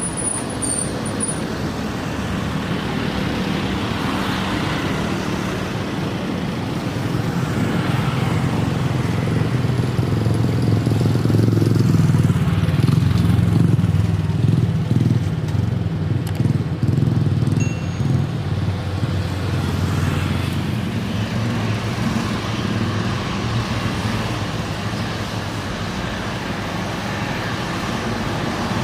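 Jet airliner passing on landing approach: a continuous engine rumble and roar that builds over about ten seconds, peaks near the middle, then fades.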